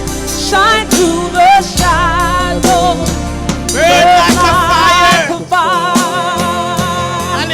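Gospel worship song: a singer with wide vibrato holding long, drawn-out notes over a sustained instrumental accompaniment.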